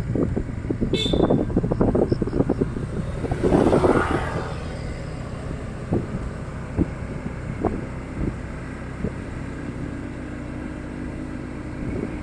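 Motorcycle engine running at low speed, with many short knocks and rattles that are dense and loud for the first four seconds, then come only now and then.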